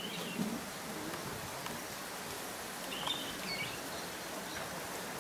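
Steady outdoor background hum with a few short bird chirps: one right at the start, and a small cluster about three seconds in.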